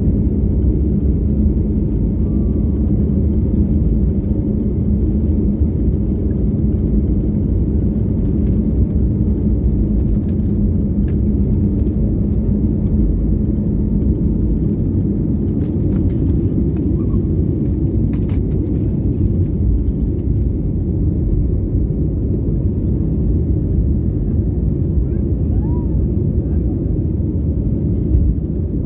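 Airliner engines running at high power during takeoff and climb: a loud, steady low rumble. A steady hum in it fades out about halfway through.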